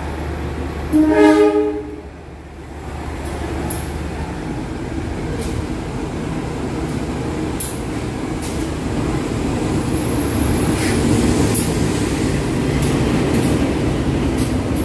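Diesel locomotive of an arriving passenger train: one short horn blast about a second in, then the engine and rolling wheels growing steadily louder as the locomotive and cars run past, with scattered clicks from the wheels.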